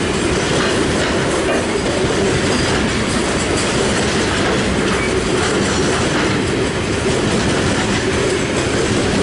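Grain hopper wagons of an SSR broad-gauge goods train rolling past close by, a steady noise of steel wheels running on the rails.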